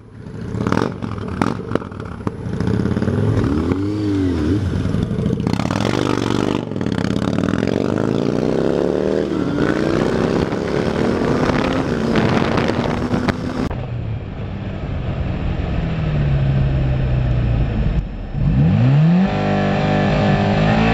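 Motorcycle engine revving up and down, with road and traffic noise, across several abrupt cuts; the engine pitch rises and falls several times, including once near the end.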